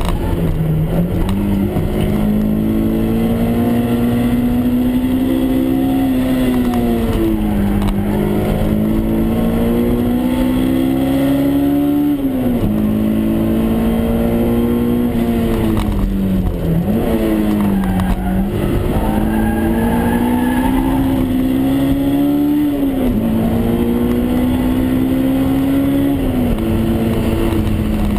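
Honda S2000 AP1's 2.0-litre F20C four-cylinder engine heard from inside the cabin, pulling hard through the gears on track. Its pitch climbs steadily under acceleration and drops sharply at each gear change, several times, over a constant road and wind rumble.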